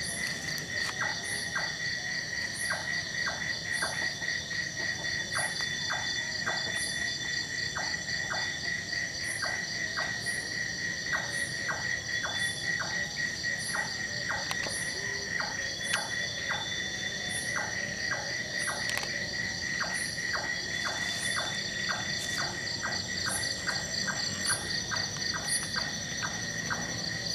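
Night insect chorus: a steady, rapidly pulsing trill, with a high chirp about once a second and many short ticking notes scattered through it.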